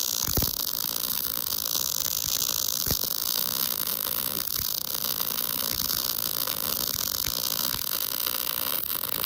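MIG welding arc running steadily: a continuous hiss with a few short pops.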